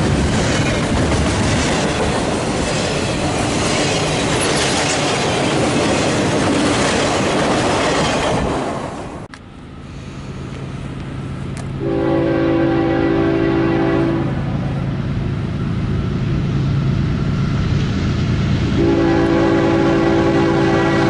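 Double-stack intermodal freight train rolling past close by: a steady loud rush of wheels on rail with clickety-clack, which cuts off about nine seconds in. Then an approaching freight train's diesel engines rumble low and steady while its locomotive horn sounds a long blast of about two seconds, and another blast starts near the end.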